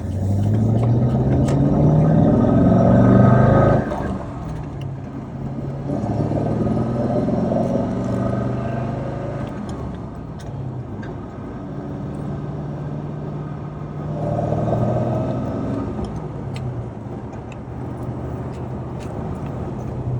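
Car engine revving three times: the pitch climbs over a few seconds about a second in, again around six seconds and again around fourteen seconds, dropping back to a steady idle between revs.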